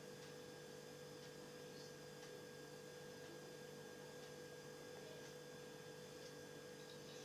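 Near silence: only a faint, steady electrical hum with a constant tone.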